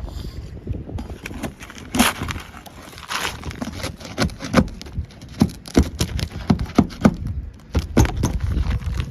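Irregular run of sharp knocks, cracks and scrapes from hands-on work on asphalt shingles, with wind rumbling on the microphone.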